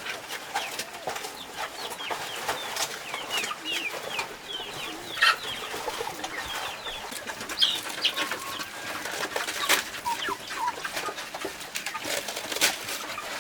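A flock of chickens clucking and peeping, with many short chirping calls throughout and a few sharp knocks.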